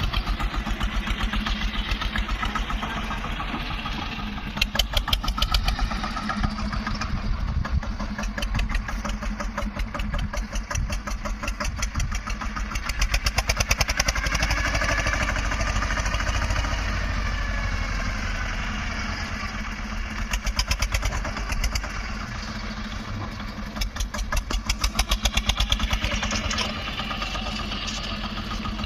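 Tractor diesel engine running, pulling harder in several louder surges as the loader works.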